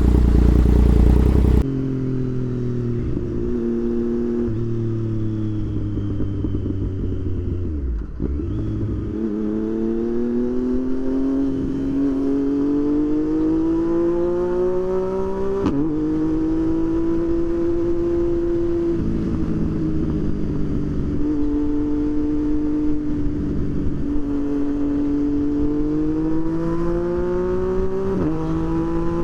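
Motorcycle engine under way, its note climbing over several seconds, then dropping sharply a little past halfway, as with an upshift, and holding fairly steady with smaller rises and falls. A louder low rumble covers the first second or so.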